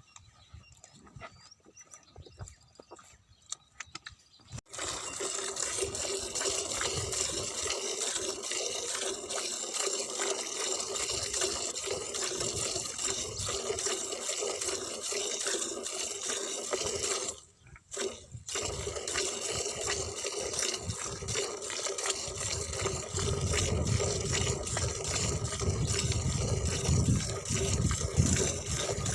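Liquid streaming steadily into a container, starting about five seconds in, breaking off for about a second midway, then going on fuller and deeper near the end.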